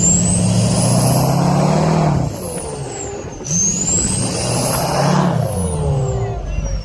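Diesel pickup truck engine revved up twice, each rev held for a few seconds, with a turbocharger whistle climbing high and falling away as it spools up and down each time.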